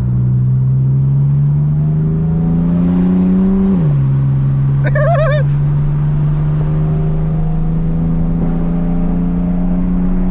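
Single-turbo BMW 135i's inline-six engine pulling under acceleration: its note climbs steadily, drops sharply at a gear change about four seconds in, then climbs slowly again. A short warbling squeal is heard about five seconds in.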